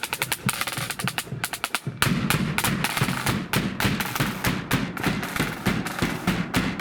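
Marching band drums playing a quick, rhythmic beat of snare strikes; about two seconds in the drumming grows louder and fuller, with deeper bass drum beats joining.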